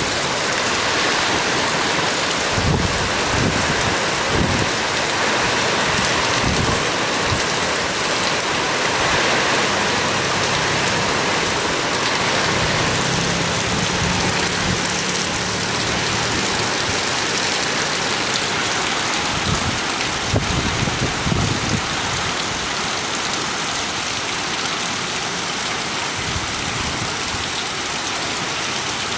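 Heavy rain and strong wind of a tropical storm, a steady loud hiss, with low rumbling surges twice, a few seconds in and about two-thirds through.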